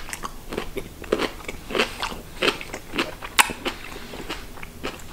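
Close-up mouth sounds of a person chewing a firm cube of sautéed parsnip: a run of irregular sharp clicks as the teeth work through the root, about two or three a second, the sharpest about three and a half seconds in.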